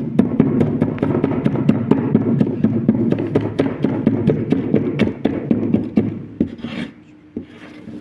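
Rapid, steady knocking of mutton being pounded and minced on a board for pounded kebab, about five or six strikes a second, dying away about seven seconds in.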